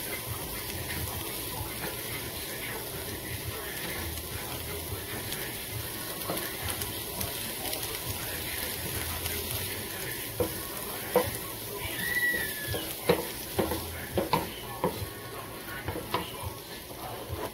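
Raw rice and diced onion sizzling in butter in a nonstick skillet while a wooden spatula stirs them. From about ten seconds in, the spatula knocks and scrapes against the pan several times.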